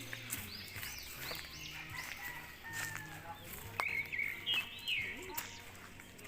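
Small birds chirping, a run of short, quick, arching notes repeated again and again, with a few sharp clicks in between.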